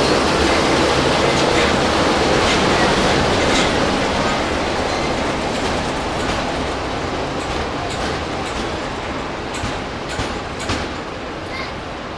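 Electroputere LDE class 60 diesel-electric locomotive and its coaches rolling past at close range, the wheels clattering over the rail joints. The sound fades steadily as the train draws away.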